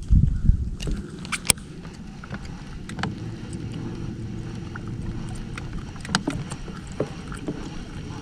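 A low steady rumble, typical of wind or handling on the microphone, with scattered small clicks and taps, loudest about a second and a half in and again around six seconds.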